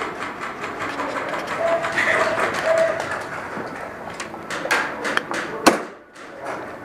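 Airsoft gunfire in an indoor arena: a steady din broken by scattered sharp cracks of shots and BB hits. The cracks come thicker about four and a half seconds in, and the loudest one falls just before six seconds.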